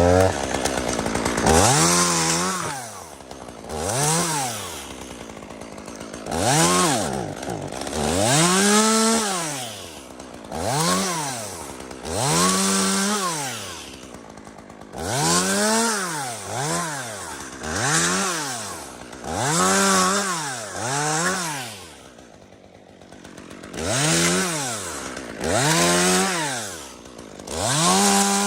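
Chainsaw revving up and dropping back more than a dozen times, each rev lasting one to two seconds, as it cuts into dead spruce wood.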